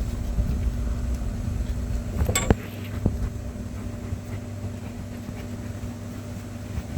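Threaded water-line fitting being worked by hand while a spigot is screwed on: a sharp click about two and a half seconds in and a fainter one soon after, over a steady low hum.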